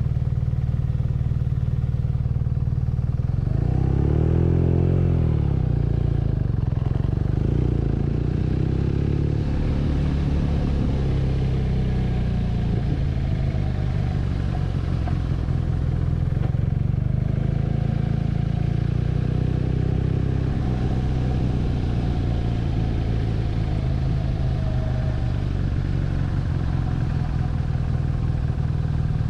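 BMW R nineT's boxer twin engine running under way, its revs rising and falling briefly about four seconds in, then settling into steady cruising.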